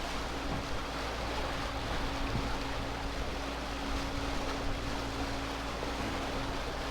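Fishing boat's engine running steadily under way at sea, a constant hum over wind and water rush.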